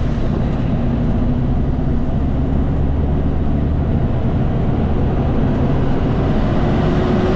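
Kenworth K200 cab-over road train's Cummins diesel engine running steadily under load, heard from inside the cab along with road noise.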